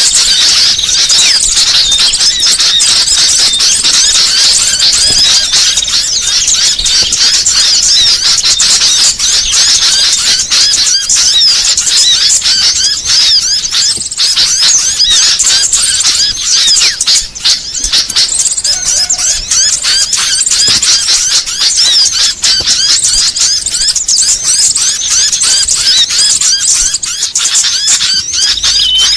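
Dense, loud chatter of many small birds calling at once, rapid high-pitched overlapping chirps without a break: a bird-lure recording used to attract small birds.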